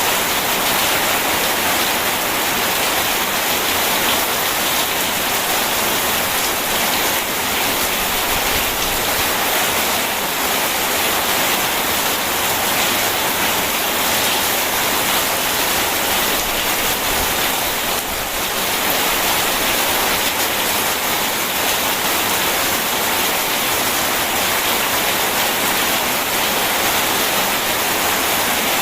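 Steady heavy rain mixed with rushing river water, a dense, even hiss without breaks and with no thunder.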